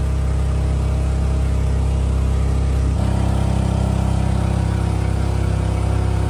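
Small engine of a jet-powered kayak running steadily, driving its jet pump, with a slight shift in its tone about three seconds in.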